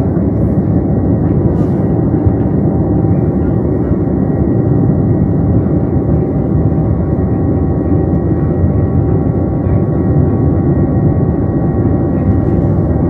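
Steady airplane cabin drone: loud, even engine and airflow noise, mostly low, with a few faint steady tones above it.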